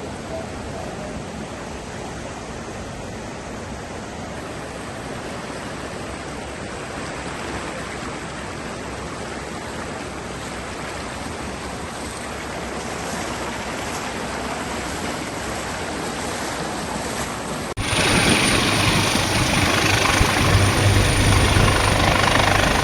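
Steady rushing of floodwater, slowly growing louder. About eighteen seconds in it cuts abruptly to a much louder rushing noise with a low steady hum underneath.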